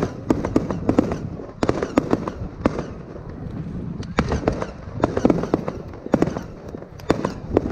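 Fireworks going off: an irregular run of sharp bangs and crackles in quick clusters, with short gaps between the clusters.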